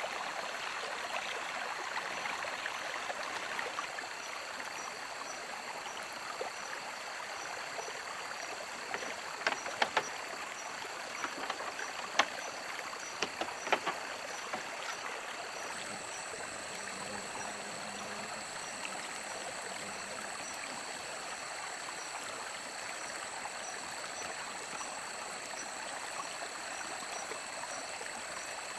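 Water flowing steadily in a stream, with a few sharp knocks or clicks about halfway through.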